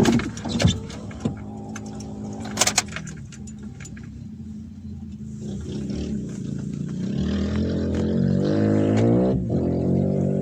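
Off-road rally vehicle engine running, a few sharp knocks in the first seconds, then revving up with rising pitch and growing louder until it drops off abruptly about nine seconds in.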